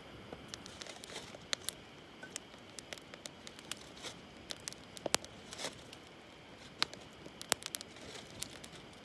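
Wood campfire crackling, with scattered, irregular sharp pops and snaps.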